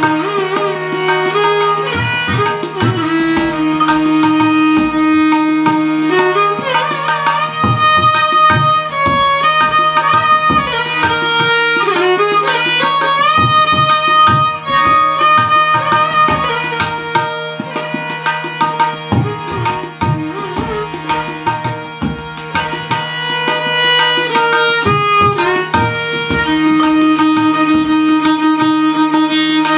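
Hindustani classical violin playing a melody with sliding notes over a steady drone, accompanied by tabla.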